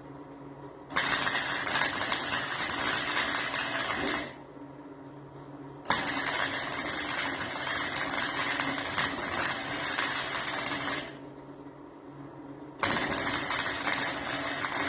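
Electric arc welding: three bursts of steady crackling, about three, five and two seconds long, each starting and stopping abruptly as the arc is struck and broken.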